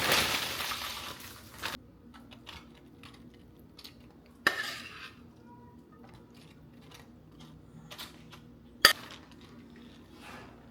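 Kitchen cooking sounds: a loud rushing noise that stops abruptly under two seconds in, then scattered clinks and clatters of dishes and utensils, with the sharpest clink near nine seconds.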